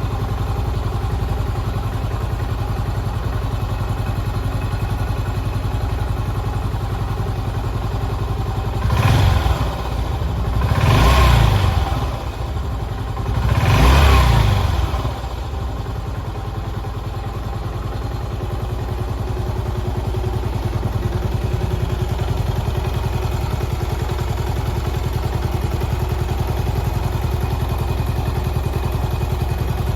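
Yamaha SR400's air-cooled single-cylinder engine idling with an even beat, revved briefly three times about a third of the way in, then settling back to idle.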